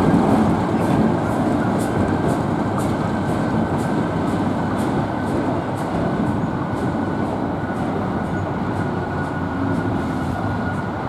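A short excursion train rolls past on the rails with a steady rumble and light, regular clicking, fading slowly as it moves away.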